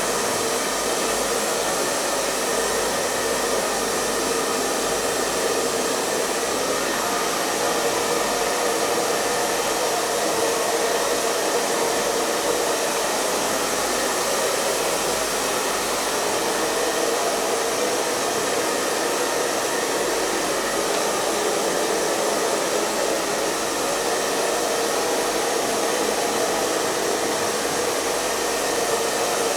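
Electric hair dryer running continuously, a steady even whoosh of blown air with a faint motor hum underneath and no change in level.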